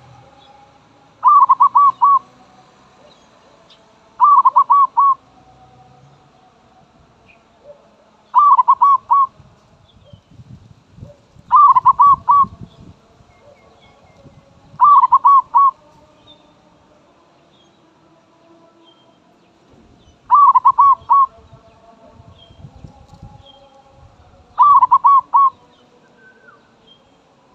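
Zebra dove cooing: seven short phrases of about four quick, rolling notes, one every three to four seconds.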